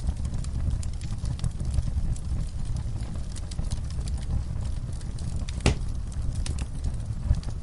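Wood fire in a fireplace crackling steadily over a low rumble, with frequent small snaps and one louder pop a little past two-thirds of the way through.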